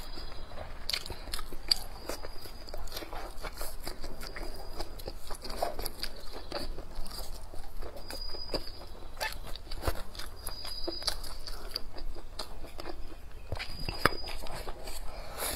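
Close-miked chewing and biting of stir-fried duck and chili peppers: wet mouth sounds and crunches with irregular sharp clicks, one strong click near the end.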